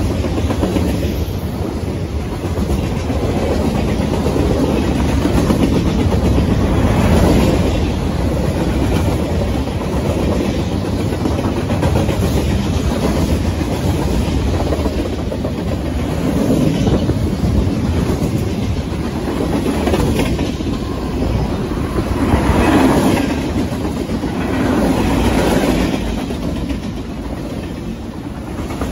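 A freight train's cars rolling past close by: a continuous rumble of steel wheels on the rails that swells louder now and then as cars go by.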